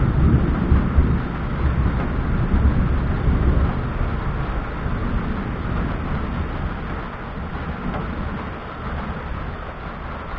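Low rumble of rolling thunder, loudest at the start and slowly fading away.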